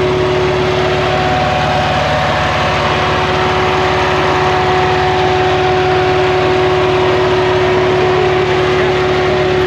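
BMW N54 twin-turbo straight-six idling steadily through custom 3-inch downpipes with race cats into a 3.5-inch exhaust.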